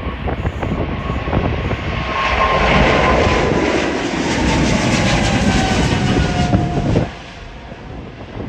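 Jet airliner taking off past the microphone: a loud engine roar builds, with a whine that drops slowly in pitch as it passes. The roar cuts off suddenly about seven seconds in, leaving gusty wind on the microphone.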